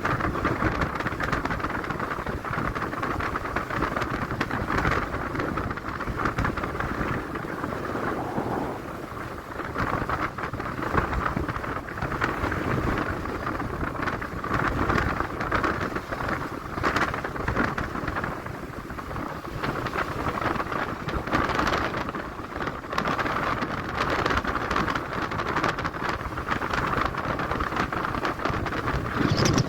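Strong wind buffeting the microphone of a phone held by a cyclist riding, a dense rushing rumble that rises and falls with the gusts.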